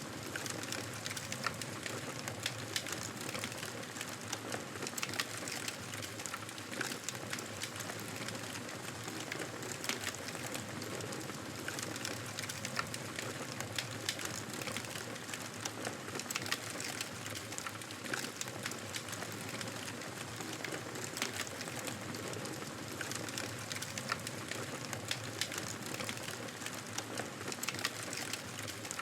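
Wood fire crackling in a fireplace: a steady soft hiss with frequent small, sharp pops and snaps.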